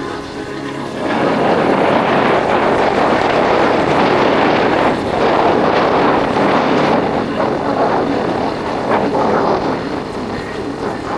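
Yamaha Factor 150 motorcycle's single-cylinder engine running on the move, with wind and road noise. About a second in, the noise grows louder and stays up, covering the engine's steady tone.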